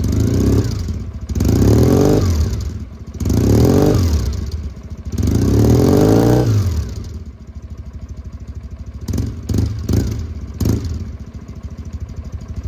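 Kawasaki W650's air-cooled parallel-twin engine breathing through Posh W1 aftermarket silencers, revved four times in quick succession. It then drops to idle, with a few short blips of the throttle near the end.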